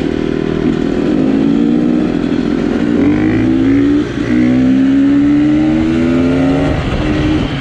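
Enduro motorcycle engine revving hard under throttle during a wheelie, its pitch climbing steadily, dipping briefly about four seconds in, climbing again, then falling off near the end.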